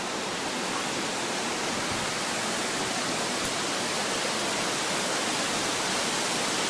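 Steady, even rushing hiss with no breaks.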